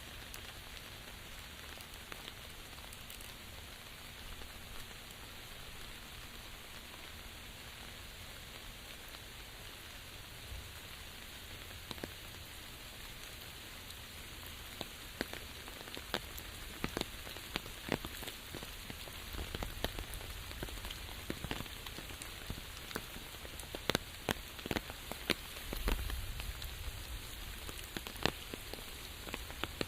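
Steady rain falling, with many separate drops pattering on a surface. The patter grows denser and louder in the second half.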